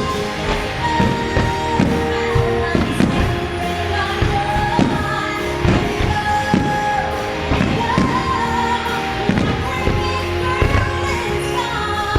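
Music with a singing voice over a fireworks show, with firework bursts thumping at irregular intervals, roughly once a second.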